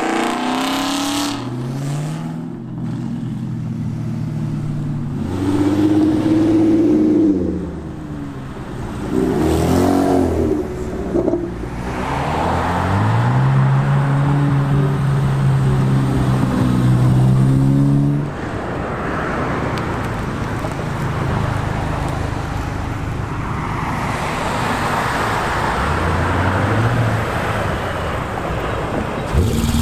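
Cars driving past one after another, their engines revving and rising in pitch as they accelerate. The loudest and longest pull runs from about twelve to eighteen seconds in.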